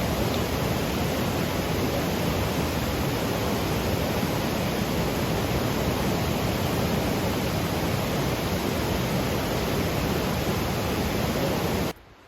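A loud, steady rushing noise that cuts off suddenly near the end.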